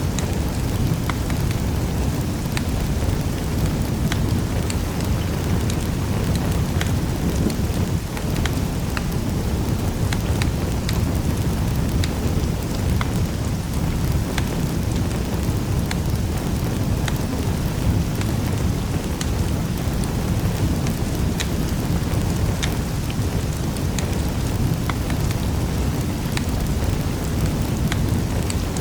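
Wood fire crackling in a fireplace: a steady low rumble of burning with many scattered sharp pops and snaps.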